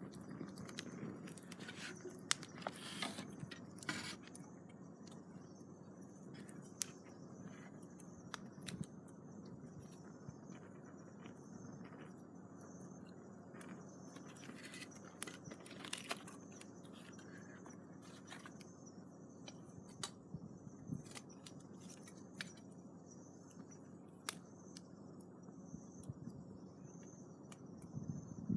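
Wood campfire crackling, with irregular sharp snaps and pops scattered throughout.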